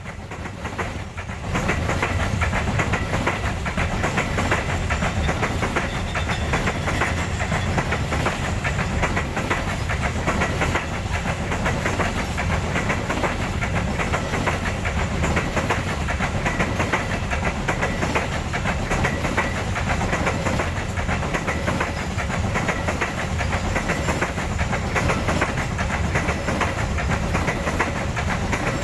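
Loaded coal wagons of a Babaranjang freight train rolling past, wheels clattering steadily over the rails with a low rumble. The sound swells about a second and a half in and then holds level.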